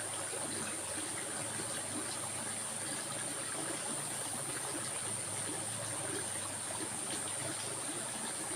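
A small stream trickling and flowing steadily, with a steady high-pitched hiss over it.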